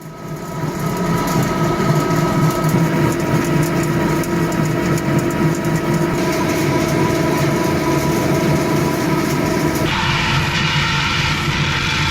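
Heavy industrial machinery running steadily: a dense mechanical noise with several steady hums under it. About ten seconds in, the sound switches abruptly to a different machine noise.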